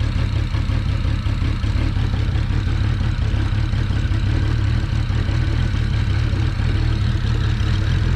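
Single-turbo BMW 335i engine idling steadily, low and loud, with a misfire that the owners think comes from an ignition coil acting up.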